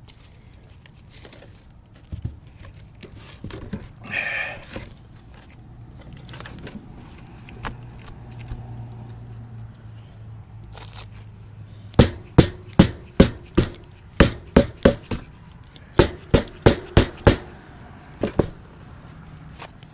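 Quiet scraping and handling, then two runs of sharp, evenly spaced hammer blows, about three a second, a little over halfway through.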